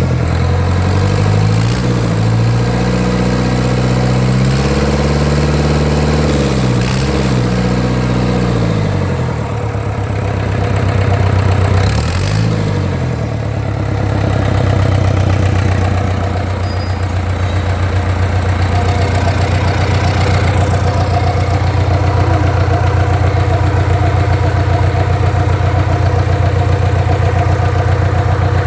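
Reconditioned Mitsubishi 4D32 3.6-litre inline-four, naturally aspirated diesel engine running. It is revved up and back down a few times in the first half, then settles into a steady idle.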